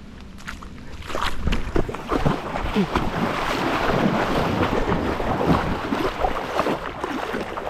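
Creek water splashing and sloshing in a dense, irregular run of strokes that starts about a second in, as of someone wading into the water.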